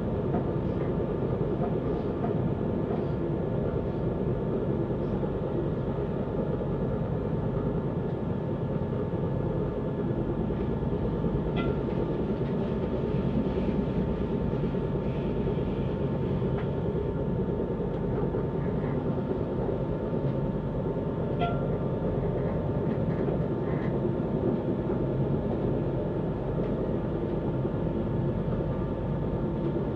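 Passenger train running steadily along the line, heard from inside the carriage: a constant rumble of wheels on rail with a steady whine running through it. A couple of brief clicks come from the running gear about a third and two thirds of the way in.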